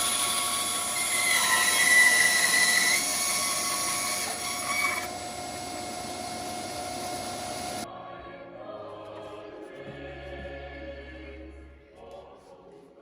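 Power saw running and cutting driftwood, its pitch dipping and recovering under load, then cutting off abruptly about eight seconds in. Fainter tones follow and fade away.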